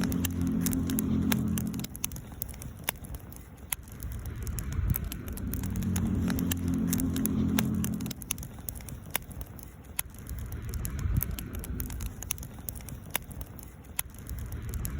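Wood campfire crackling and popping with frequent sharp snaps. Underneath, a low rumbling hum swells and fades twice.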